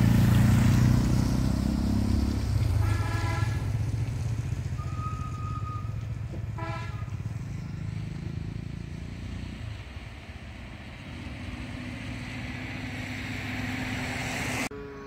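A motor vehicle's engine running, loud at first and fading away over about ten seconds, with two horn beeps about three and seven seconds in; the sound cuts off suddenly near the end.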